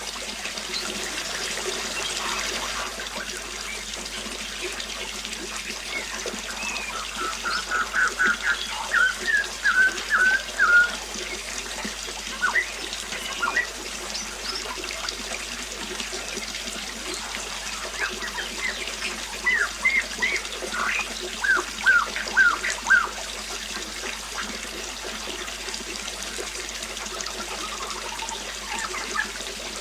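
Water trickling steadily. A bird calls in two quick runs of short repeated notes, one about eight seconds in and another about twenty seconds in, each lasting a few seconds.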